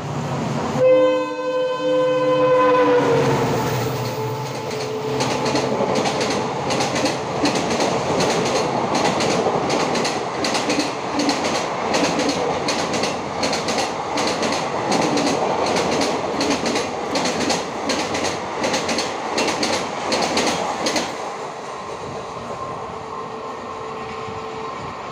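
A WDP4D diesel locomotive's horn blares for about two seconds, dropping in pitch as the locomotive passes at speed. Then the express's coaches rush by with a rapid, rhythmic clickety-clack of wheels over rail joints, which stops abruptly as the last coach clears.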